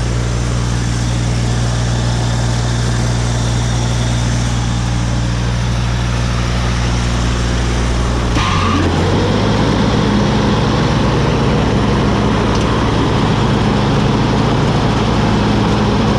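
Woods 6215 mower's Kubota three-cylinder diesel engine running steadily on a test run after the repair, sounding healthy. About halfway through, the running changes and becomes louder and busier.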